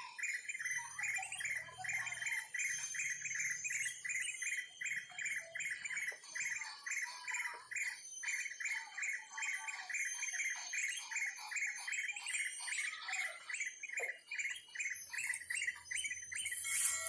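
Bird chirping in a fast, evenly repeated series of short notes, about four a second, with a steady high whine behind it.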